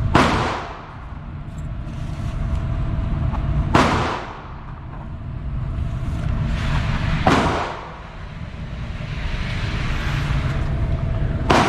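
Four single 9mm pistol shots fired slowly, about three and a half to four seconds apart, each a sharp crack with a short echo, over a steady low rumble.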